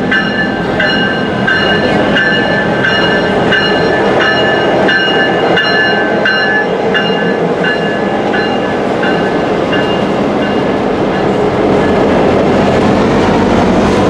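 Diesel locomotive bell ringing about twice a second as a train of diesel locomotives and passenger cars rolls slowly past, with the steady rumble of engines and wheels underneath. The bell fades out about ten seconds in, leaving the engine and wheel rumble.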